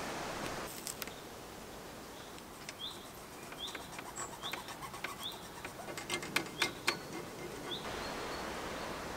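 A bird repeating a short high chirp about once every second, over soft handling noise and a few clicks as a vinyl sticker is rubbed onto a bike frame.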